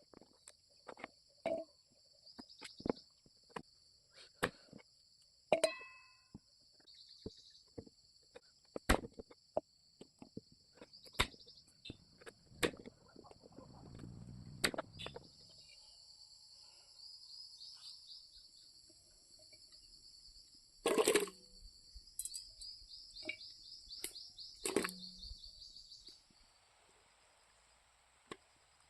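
Knife cutting carrots and beetroot on a chopping board: irregular sharp taps and knocks, a couple of them louder about three-quarters of the way through. Behind them, crickets chirr steadily in high thin trills that stop near the end.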